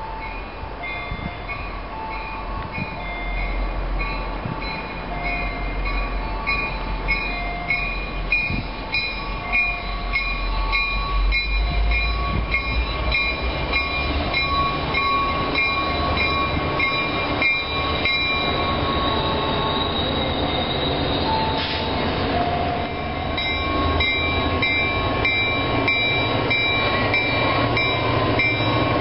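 Diesel train approaching, its low engine rumble and rail noise growing steadily louder as it nears. Over it a bell rings rapidly and evenly, about two strokes a second.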